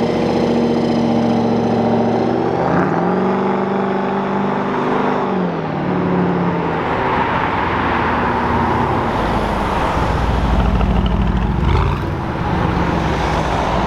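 Car engines pulling away: one engine's note rises in a step about three seconds in and falls back a couple of seconds later, then a deeper rumble takes over from about nine seconds in as the next car leaves.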